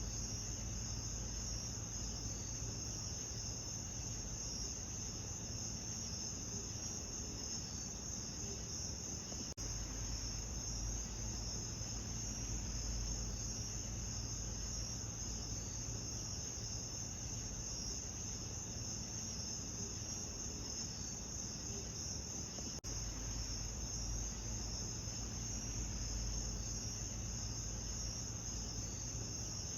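Steady chorus of crickets chirping in a dense, high trill, over a low steady rumble, with two brief dips where the loop is spliced.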